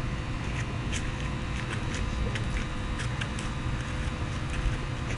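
Macaws cracking walnut and peanut shells with their beaks: irregular sharp clicks and crunches, a few each second, over a steady low rumble.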